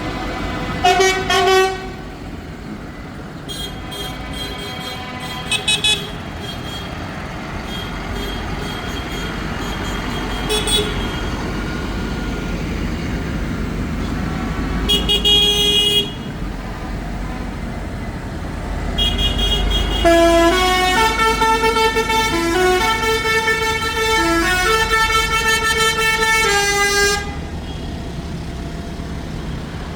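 Tractor engines running steadily while horns are sounded in several short blasts. About twenty seconds in, a horn plays a tune of stepping notes for about seven seconds.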